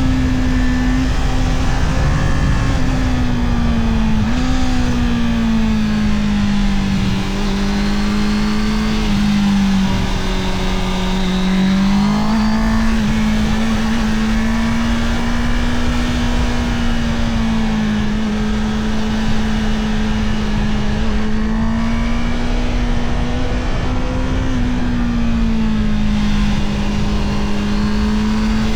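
Honda CB650R's inline-four engine running under way, its pitch rising and falling with the throttle, with a few sudden steps in pitch from gear changes.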